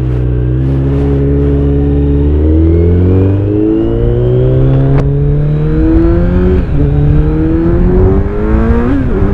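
Kawasaki Z900's inline-four engine through an Akrapovic exhaust, pulling under acceleration: the pitch climbs steadily for several seconds, then drops twice in quick succession near the end as the rider shifts up, rising again after each shift.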